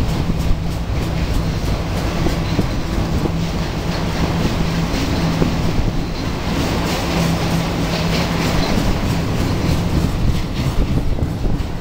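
Freight train of enclosed autorack cars rolling past close by: a steady loud rumble of steel wheels on the rails, with repeated clicking as the wheels cross rail joints.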